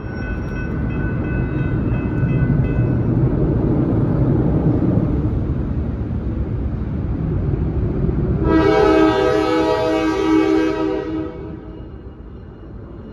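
Freight train rumbling past while a diesel locomotive's horn sounds, first faintly, then a loud chord-like blast lasting about two and a half seconds past the middle.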